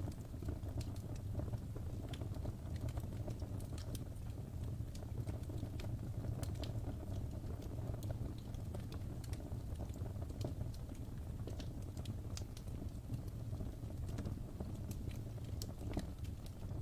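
Wood fire in a fireplace crackling: a steady low rumble of burning with frequent irregular sharp pops and snaps throughout.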